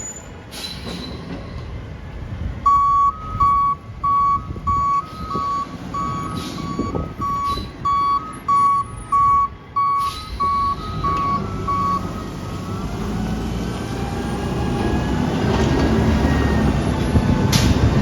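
Recycling garbage truck's backup alarm beeping at a steady pace, alternating between two close pitches, for about nine seconds. After it stops, the truck's engine grows louder.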